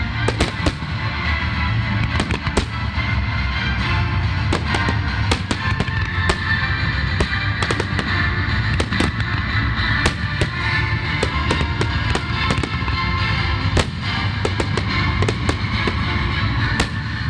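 Fireworks display: many shells bursting in quick, irregular succession, dozens of sharp reports, with music playing at the same time.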